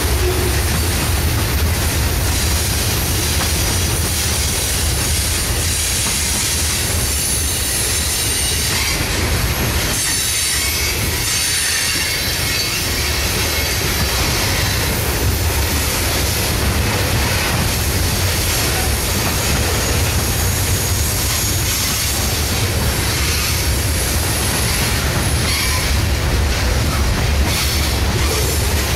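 CSX coal train's hopper cars rolling past: a steady low rumble of steel wheels on the rails, with thin high-pitched wheel squeal running through it.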